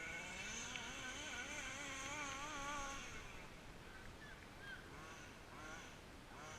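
Small 29cc reed-valve two-stroke engine of a petrol RC car running at a distance, its buzzing pitch wavering up and down for about three seconds, then fading before short rising revs near the end.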